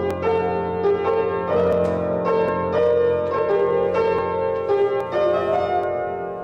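Slow instrumental keyboard music: a melody of bright, ringing notes over a steady held bass.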